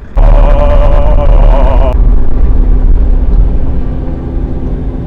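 Midsize excavator running loud as it sets off. A high whine sits over the engine rumble for about the first two seconds and then cuts off, leaving a steady running.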